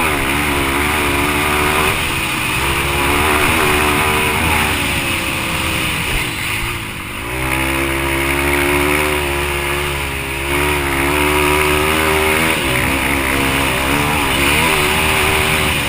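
Yamaha TT-R230 dirt bike's single-cylinder four-stroke engine at racing throttle, its revs rising and falling. A little past halfway the revs dip briefly, then climb and hold high again.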